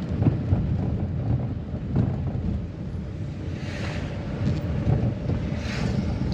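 Wind buffeting the microphone over the low rumble of a moving vehicle on a forest road, with a faint steady engine tone. Two brief hisses stand out, about two thirds of the way in and near the end.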